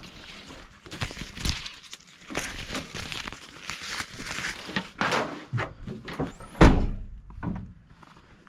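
Rustling and knocking as gear is handled, with one loud thump about two-thirds of the way through.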